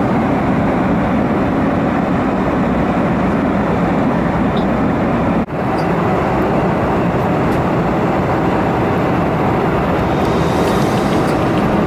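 Steady jet airliner cabin noise, the even rush of engines and airflow heard from inside the cabin, dropping out for an instant about halfway through.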